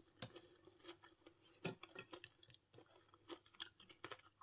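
Faint, crunchy chewing of crisp-fried karaage chicken: a scatter of small, irregular crunches, the clearest a little under two seconds in.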